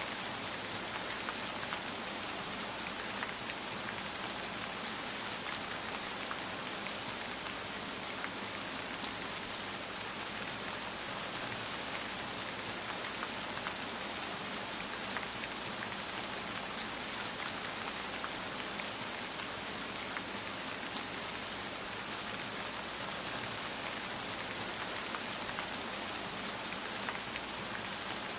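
Steady rain falling, a dense even hiss with many fine individual drop patters and no change in intensity.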